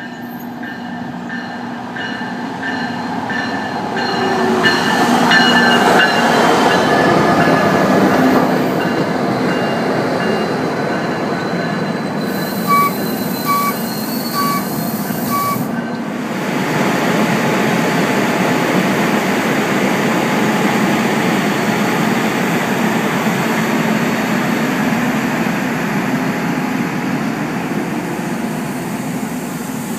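NJ Transit diesel commuter train arriving at a station with steady squealing from the wheels and brakes, loudest a few seconds in. About halfway through come four evenly spaced beeps, then the train moves off with a broad, steady rumble.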